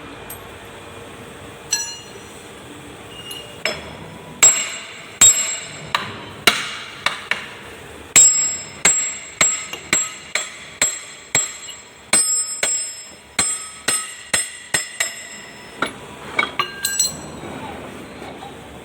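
Hammer blows on metal, about two a second, each leaving a short metallic ring. The hammering starts about four seconds in and stops shortly before the end.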